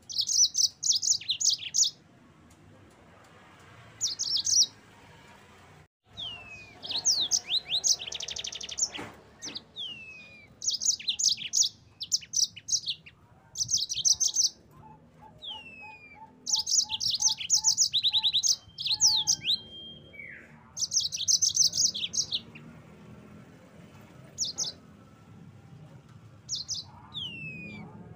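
Yellow-fronted canary (Mozambique canary) singing in repeated phrases: bursts of fast, high trills mixed with short descending whistles, separated by brief pauses. Around the middle a run of evenly spaced lower notes, about three a second, joins in.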